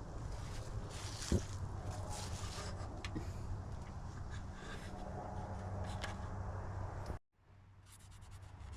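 Faint steady low hum with a few light clicks and a single knock about a second in; it cuts off abruptly a little after seven seconds.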